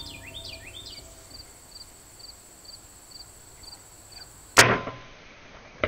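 A compound bow being shot at a deer: one loud, sharp crack of the string's release, followed just over a second later by a second short, sharp crack. Insects chirp about twice a second before the shot.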